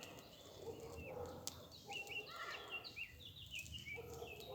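Faint outdoor ambience with birds chirping: a run of short, repeated high chirps about two seconds in, with a few light clicks.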